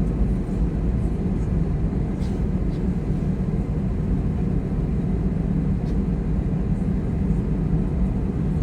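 Steady low rumble inside the cabin of an Airbus A320-214 on the ground before takeoff: its CFM56 engines running at low taxi thrust, with a faint tick or two.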